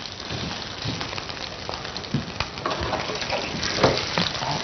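Small kofta meatballs sizzling as they fry in a little oil in a pan, an even crackle with scattered pops and a few light knocks.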